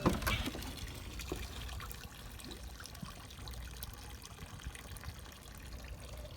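The outboard's electric power-tilt motor stops with a clunk right at the start, then water trickles and drips with scattered small ticks.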